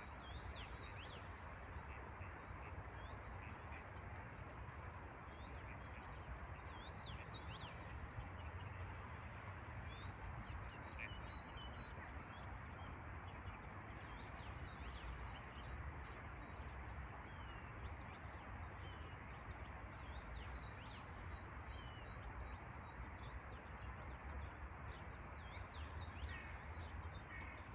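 Steady hiss of falling rain, with birds chirping in short, high calls again and again, over a low rumble.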